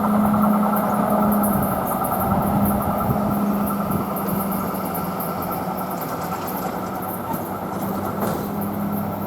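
Passenger train running past and away, a steady rumble slowly fading, with a steady low hum underneath.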